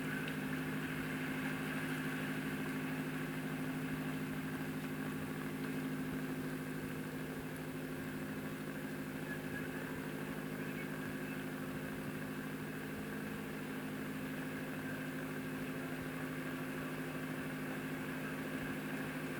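A steady engine hum at a constant pitch, running without change.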